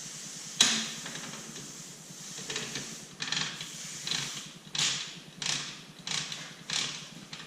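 A hand tool cutting with short, evenly repeated strokes, roughly one every half second or so, after a single sharp click about half a second in.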